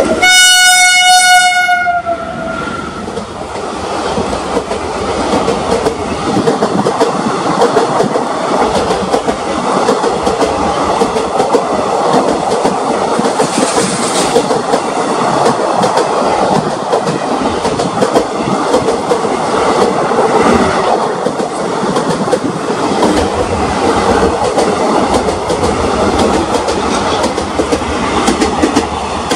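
WAP-4 electric locomotive's horn sounding for about two seconds, its pitch dropping as the locomotive passes at speed. Then the express coaches rush by, with the steady rumble of wheels and the clickety-clack of rail joints.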